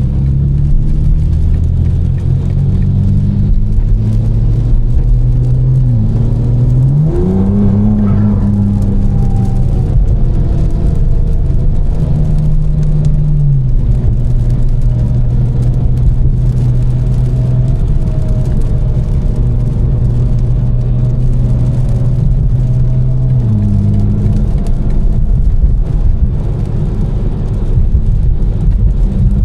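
A tuned BMW M4's twin-turbo inline-six, fitted with catless downpipes and an aftermarket exhaust, drones steadily while driving. Its pitch climbs under acceleration about six to eight seconds in, drops with gear changes around thirteen and twenty-four seconds in, and rises again near the end.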